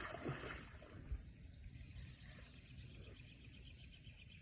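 Faint, quick, even chirping of birds, with a little water splashing and a single light knock in the first second or so.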